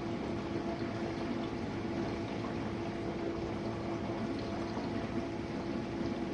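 Jenn-Air dishwasher running mid-cycle: water sloshing and spraying inside the tub over the steady hum of its pump motor.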